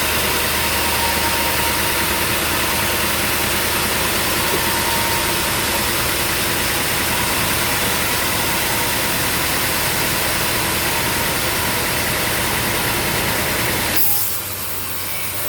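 Sawmill machinery running steadily, an engine-driven mill with a faint steady tone over dense noise; near the end the sound drops abruptly to a lower level.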